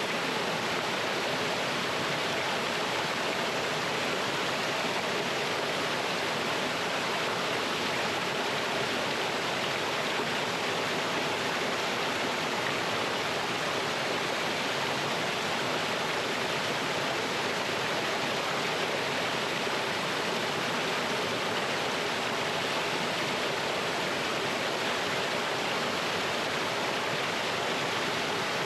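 A small mountain waterfall and stream rushing steadily over rocks.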